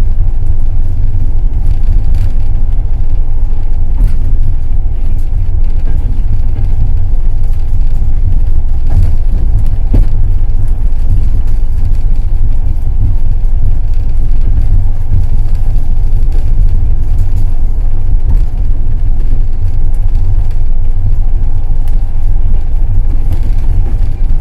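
Passenger train running: a steady, loud low rumble with an occasional sharp knock of the wheels over the rails, a few times at uneven intervals.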